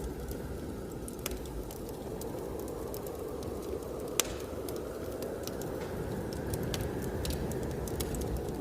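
Wood fire crackling in a fireplace, with scattered small pops and one sharper pop about four seconds in, over a steady low rush of blizzard wind.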